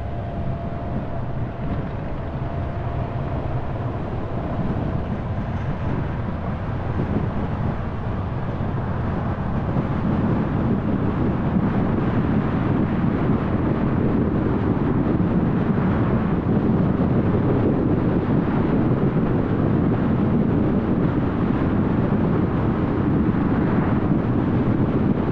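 Car driving along a road: steady tyre, wind and engine noise, growing louder about ten seconds in.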